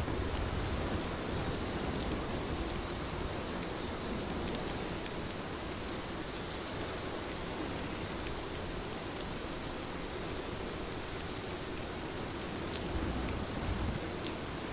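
Heavy rain falling steadily, a dense even hiss with scattered sharper drop ticks, and a low rumble that swells briefly near the end.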